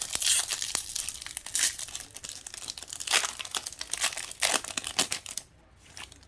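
A trading-card pack wrapper crinkling and tearing as it is ripped open and handled, in quick irregular crackles that stop about five and a half seconds in.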